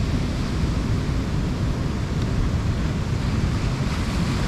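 Steady wind on the microphone over the wash of rough surf on rocks.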